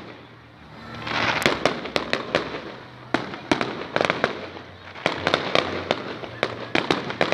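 Fireworks display: aerial shells bursting overhead in an irregular run of sharp bangs, several a second.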